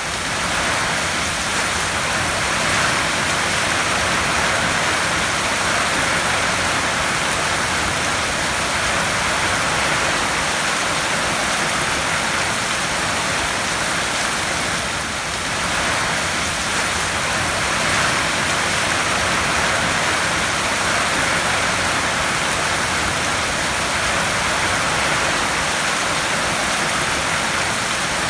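Heavy rain falling steadily on a tin roof: a dense, even hiss with gentle swells in loudness.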